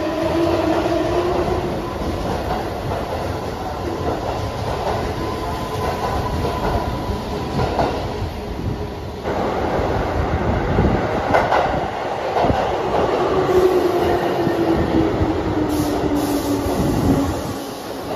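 Keihan electric commuter train running along an underground station platform, with motor whine and wheels clattering over the rail joints. After an abrupt break about nine seconds in, a train's motor whine falls steadily in pitch as it slows on braking, and the sound drops off near the end.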